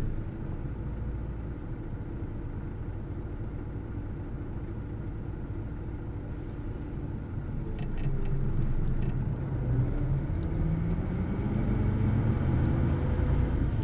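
Hino Blue Ribbon City Hybrid bus's diesel engine running low and steady. About eight seconds in it grows louder and the engine note rises as the revs climb.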